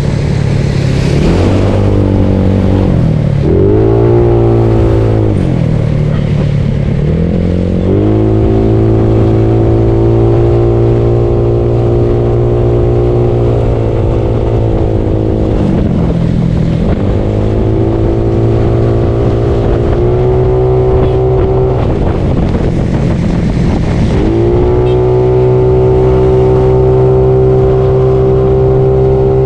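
Bored-up Yamaha Mio scooter engine under way: the revs rise and fall a few times over the first several seconds, then hold steady at cruising speed, dipping briefly twice more.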